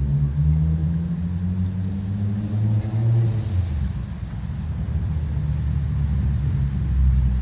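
A motor vehicle's engine, its note rising over the first three seconds or so, over a steady low rumble.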